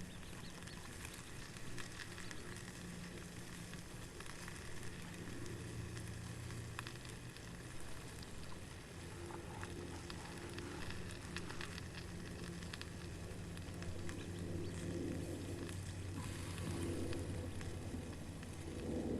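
Small wood campfire crackling and popping, with steak and vegetables sizzling on a grill over it, and a steady low hum underneath.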